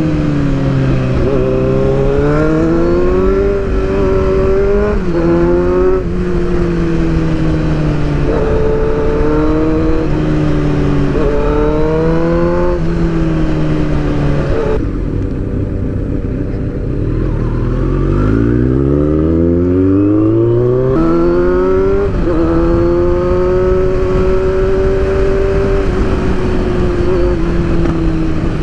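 Inline-four sport motorcycle engine pulling hard on a ride, its revs climbing and dropping again and again through the gears, over a steady rush of wind. About halfway through the revs fall off, then rise in one long pull.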